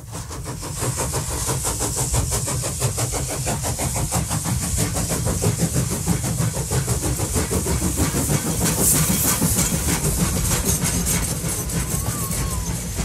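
Train running: a steady, fast, rhythmic engine-and-track noise that fades up at the start.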